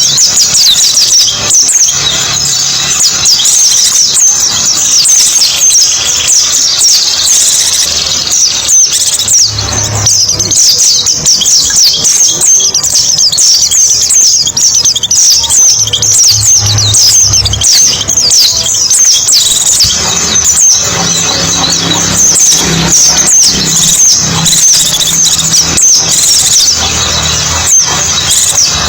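White-eyes (pleci) twittering in a dense chorus: many rapid, short, high-pitched chirps overlapping without a break, as used in a bird-lure recording for small birds. A faint low hum runs underneath.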